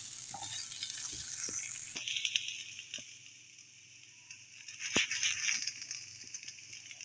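Sliced chicken sausages sizzling as they dry-fry, without oil, in a nonstick frying pan while a silicone spatula stirs them. The sizzle drops off about two seconds in, leaving fainter frying with a few clicks of the spatula against the pan, the sharpest one about five seconds in.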